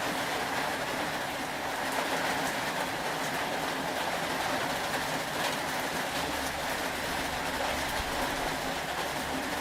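Steady rain falling, an even hiss with faint scattered patters, joined by a low rumble from about six seconds in until near the end.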